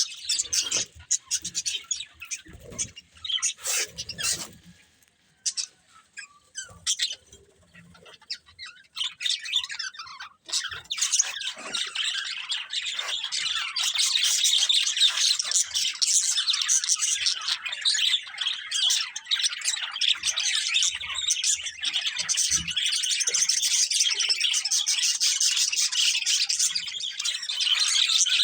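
Budgerigars chirping: scattered chirps with short pauses at first, then from about ten seconds in a dense, continuous chatter of high chirps.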